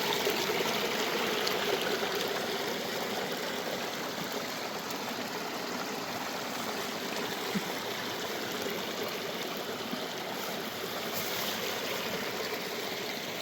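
Steady rushing of water, an even hiss without breaks, from rain-swollen running water.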